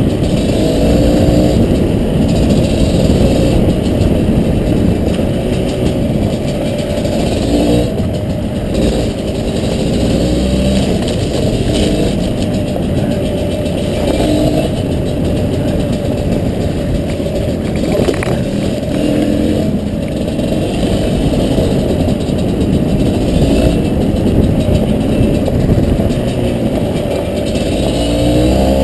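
Two-stroke dirt bike engine running continuously, its pitch rising and falling with the throttle.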